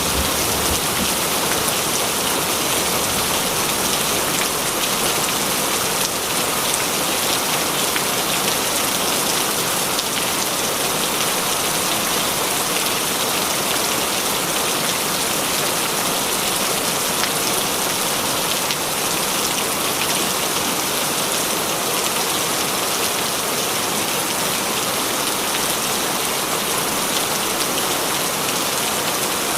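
Heavy rain falling steadily, a dense even hiss of drops on a surface with no break or change.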